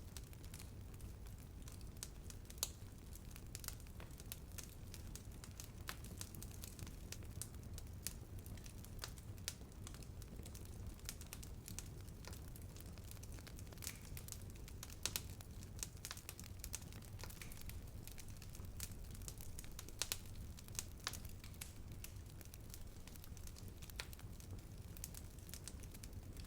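Wood fire burning with steady, irregular crackling and occasional louder pops over a low rumble of flame.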